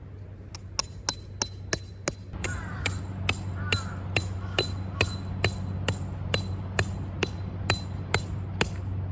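A hammer repeatedly driving a metal tent peg into the ground, about twenty sharp blows at roughly two a second, each with a short metallic ring, over a steady low hum.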